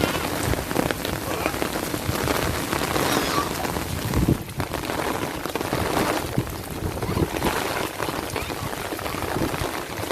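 Steady rainfall with many small drop impacts on surfaces, dipping briefly about halfway through.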